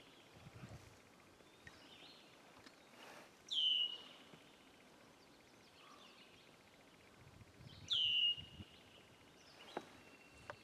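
A bird calling twice, about four and a half seconds apart: each call a loud whistle that slides sharply down and then holds briefly. Faint outdoor background between the calls.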